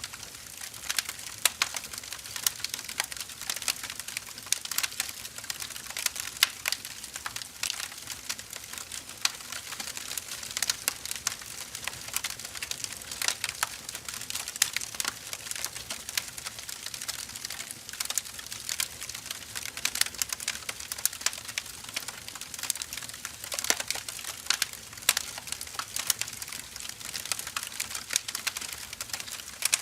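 Wood fire burning, with sharp irregular crackles and pops over a steady hiss of flame.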